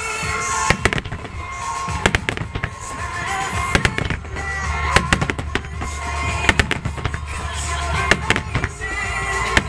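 Aerial fireworks shells bursting in a rapid, irregular string of sharp bangs, with music playing throughout.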